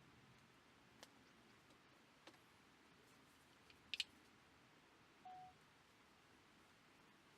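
Near silence with a few faint, sharp clicks, the loudest about four seconds in, and one short beep about five seconds in.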